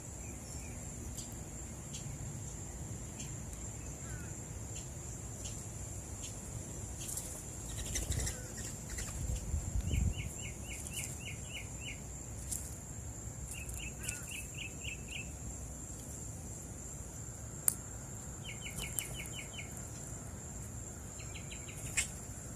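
Outdoor dawn ambience with a steady high insect drone. A songbird repeats a short, quick run of about eight notes four times, and about eight seconds in there is a low fluttering of bird wings. Two sharp clicks come near the end.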